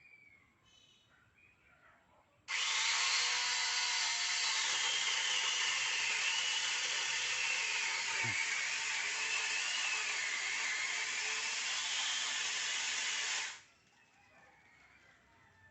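Small electric chainsaw running and cutting wood for about eleven seconds, starting and stopping abruptly, its motor whine wavering as the load changes.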